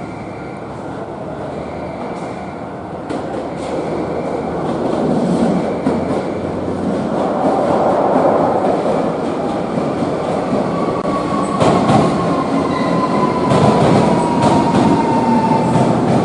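Electric train running on rails, its rumble growing louder, with wheel clicks over rail joints in the second half. Near the end a thin high whine slowly falls in pitch.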